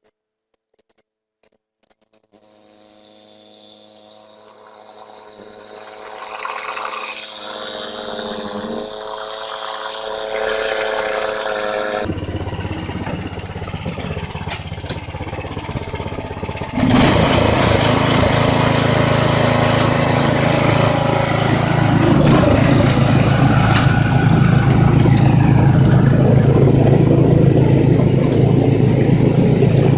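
An engine sound that builds up gradually over about ten seconds, then a louder, rough engine noise cuts in suddenly about halfway through and keeps running steadily.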